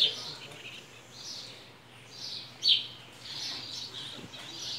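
Small birds chirping and twittering, with a sharp, loud call at the start and again a little over halfway through.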